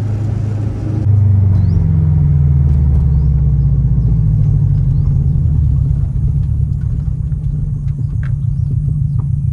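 Car engine and exhaust heard from inside the cabin while driving: its low drone steps up and rises in pitch from about a second in as the car accelerates, then settles to a steady, pulsing rumble after about six seconds.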